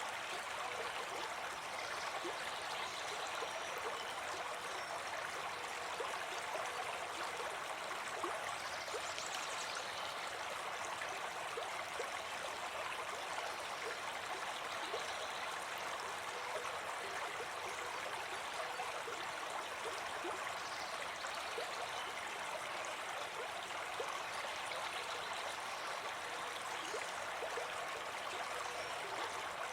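Brook babbling and trickling steadily over stones.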